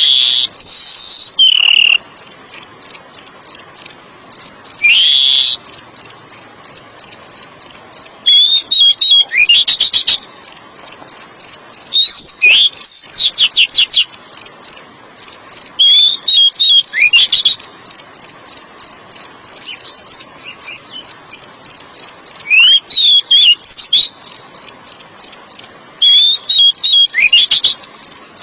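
Oriental magpie-robin singing short whistled phrases, sweeps and quick trills, every three or four seconds, over a cricket chirping steadily at about three pulses a second.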